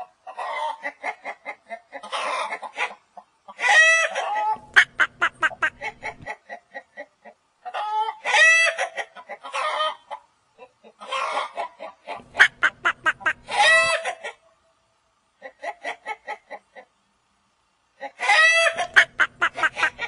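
Domestic chicken clucking in repeated bouts, each a quick run of clucks with longer drawn-out calls, with short pauses between the bouts.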